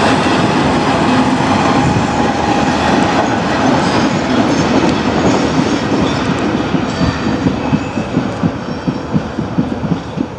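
Engineering-train freight wagons rolling past, their steel wheels running over the rails in a loud, steady rush that fades as the train draws away. From about seven seconds in, the clicks of the wheelsets over rail joints stand out, about three a second.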